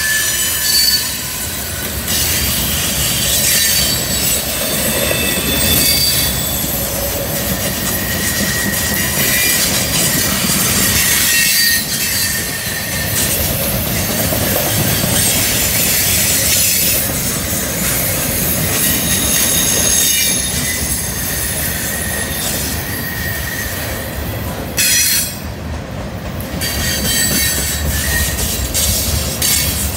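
Freight cars rolling past on a curve, their steel wheels squealing against the rail in thin, high whines that come and go over the steady rumble and clack of the wheels.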